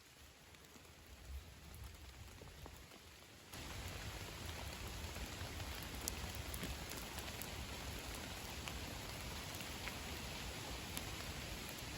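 Steady rain falling, an even hiss with scattered ticks of individual drops; it is softer for about the first three and a half seconds, then steps up and holds steady.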